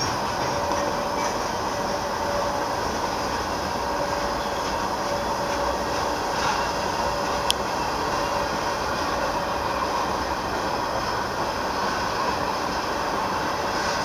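Slow-moving freight train's covered hopper cars rolling past: a steady rumble of wheels on rail with a faint steady whine, and a single sharp click about halfway through.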